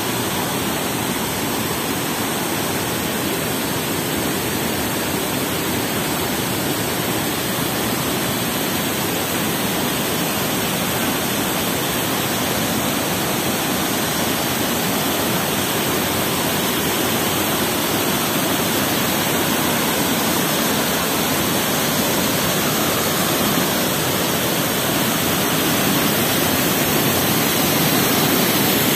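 Waterfall crashing steadily, a dense, even rush of falling water, growing slightly louder near the end.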